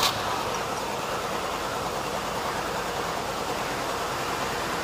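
Willys Hurricane 2199 cc four-cylinder petrol engine running steadily at idle on its first start after about ten years standing.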